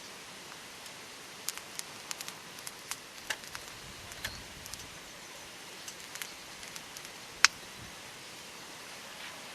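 Wood campfire crackling: irregular sharp pops and snaps over a steady hiss, with one much louder pop about seven and a half seconds in.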